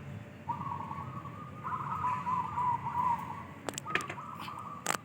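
Zebra doves (perkutut) cooing in several trilled, wavering phrases one after another, with more than one bird calling. A few sharp clicks sound near the end.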